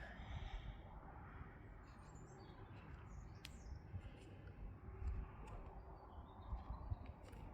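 Faint, scattered bird chirps and a few light clicks over a low, steady outdoor rumble.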